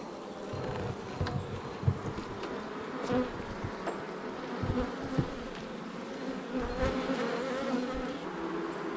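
A swarm of honey bees buzzing steadily around an open hive, the hum wavering in pitch, with a few dull low bumps from the hive being handled.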